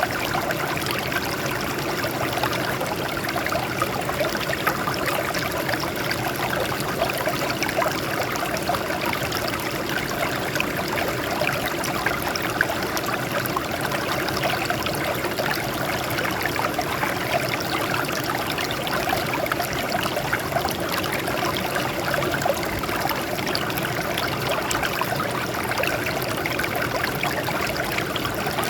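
Water trickling and splashing over rocks in a steady, continuous babble.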